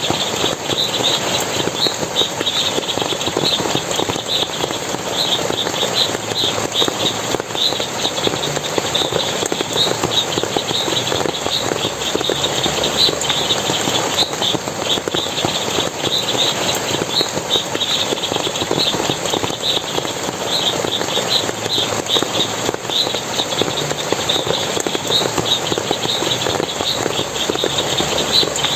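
Forest water splashing and running steadily, with short high chirps repeating a few times a second throughout.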